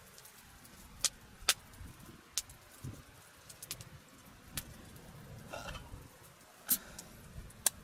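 Scattered sharp clicks and light knocks, about six of them spread irregularly, over a quiet background with faint low murmuring.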